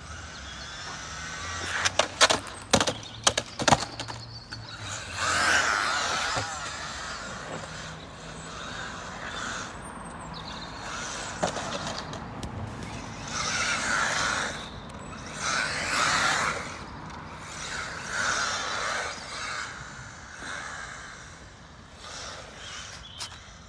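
Electric radio-controlled cars driving, their motors whining up and down in repeated swells with tyre noise. There is a cluster of sharp clacks and knocks about two to four seconds in.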